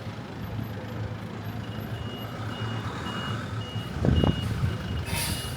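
A vehicle's reversing alarm beeping about twice a second over a low running engine. There is a low gust-like surge about four seconds in and a short hiss near the end.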